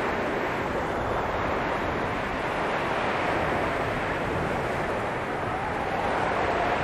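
Blizzard wind blowing: a steady rushing noise, with a faint whistling howl near the end.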